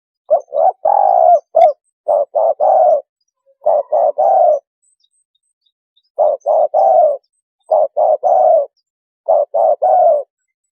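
Spotted dove cooing: six phrases, each of three or four short, breathy coos.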